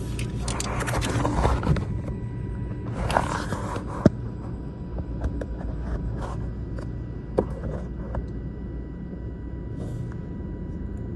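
Steady low rumble of a heavy truck's diesel engine idling, with a faint steady hum over it. Rustling handling noise comes near the start and again about three seconds in, and there are sharp clicks about four and seven seconds in.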